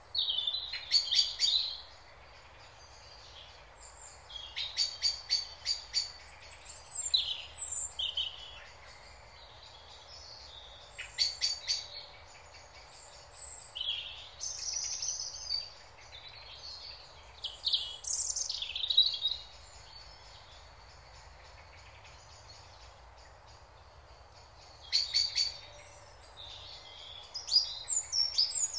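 Small songbirds chirping and singing in short phrases of one to several seconds with quiet gaps between, over a low steady background noise.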